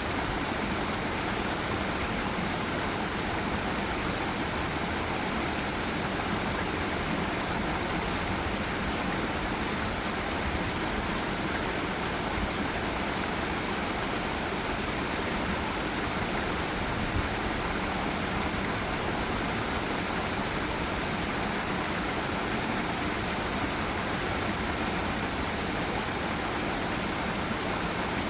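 Forest river and small waterfall: water rushing in a steady, even noise with no breaks.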